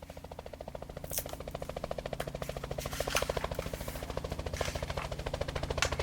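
A rapid, steady mechanical rattle with a low hum underneath, like a jackhammer or motor sound effect, growing louder over the first few seconds. A few sharp ticks sound over it.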